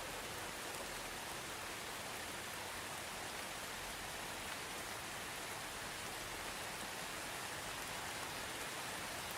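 Soft rain falling steadily, an even hiss with no breaks.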